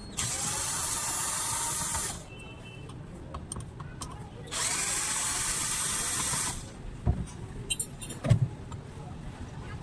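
Angle grinder motor switched on and run in two short bursts of about two seconds each, a whirring hum with hiss that rises in pitch as it spins up. These are followed by a few knocks of the tool being handled.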